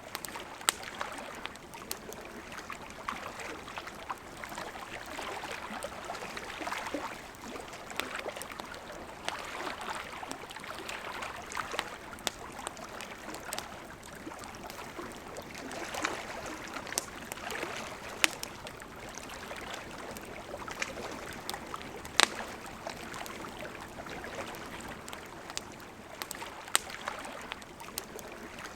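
Steady rush of a flowing river with a campfire crackling over it: scattered sharp pops and snaps, one of them louder than the rest about three-quarters of the way through.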